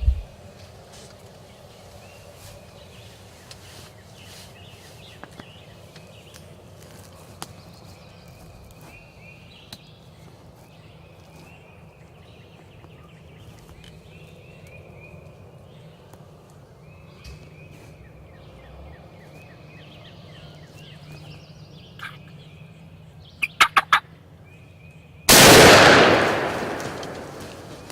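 Wild turkey calling and gobbling in a run of raspy notes, then a quick burst of sharp notes. About three quarters of the way through comes a single loud gunshot that rings out and dies away over a couple of seconds.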